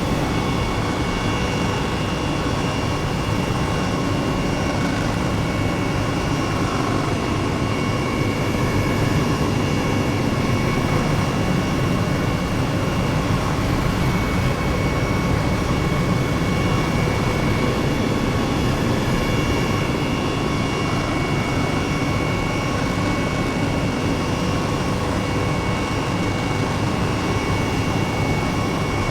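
Helicopter running in steady flight: a constant low rumble with steady high whining tones above it.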